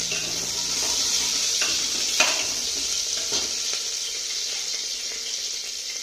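Chopped green chillies sizzling in hot ghee in an aluminium pressure cooker, a steady frying hiss. A metal spatula stirs them, scraping and tapping against the pot a few times, loudest about two seconds in.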